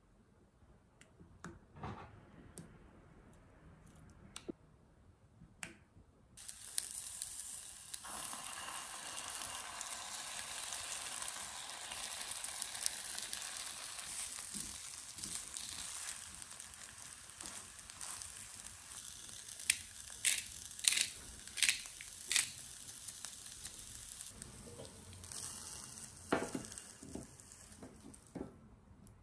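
Egg-dipped zucchini slices sizzling in oil in a frying pan. The first few seconds hold only light clicks as slices are set into the pan with chopsticks. About six seconds in, a steady sizzle starts and runs almost to the end. Around twenty seconds in, several sharp taps of chopsticks on the pan break in as the slices are turned.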